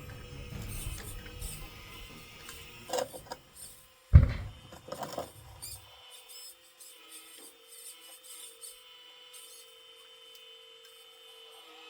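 Homemade metal RC model excavator working: a few metallic clicks, then a single loud clunk about four seconds in, after which a low rumble stops and only a steady small-motor whine with faint ticks remains.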